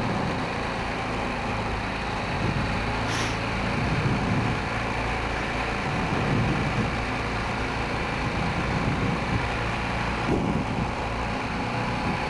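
Honda Rincon 650 quad's single-cylinder engine running steadily while under way, with small rises and falls in engine speed.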